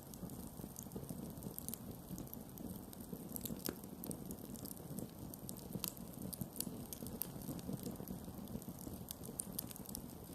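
Wood campfire burning, with irregular sharp crackles and pops over a low soft rumble of flames.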